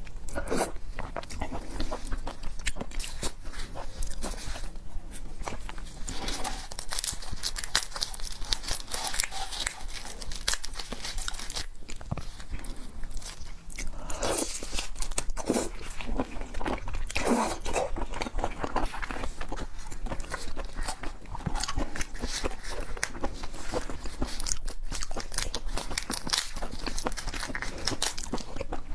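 A person chewing and biting into seafood: a dense, steady run of crackly clicks and crunches, with a brief lull about halfway through.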